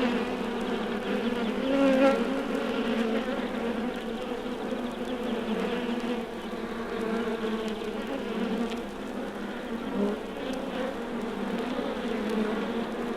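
Honeybee hive giving a steady, gentle buzz: the massed hum of an undisturbed colony, swelling slightly about two seconds in.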